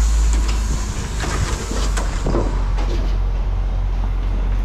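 Heavy vehicle's engine running with a steady low rumble, with a few scattered knocks and clanks.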